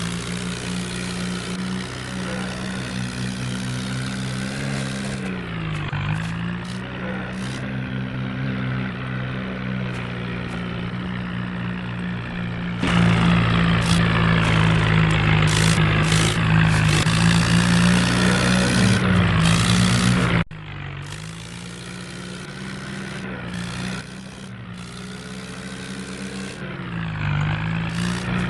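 HMT tractor's diesel engine running, its speed dipping briefly and recovering several times. It grows louder for several seconds in the middle, then drops back suddenly.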